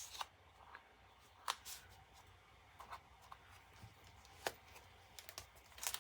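Paper cards and journal pages being handled: a handful of separate soft rustles and sharp paper taps, spaced about a second apart.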